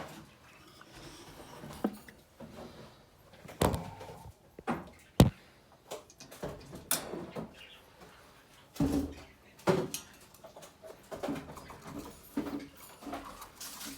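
Budgerigars making short chirps and calls, with several sharp knocks and clicks scattered among them.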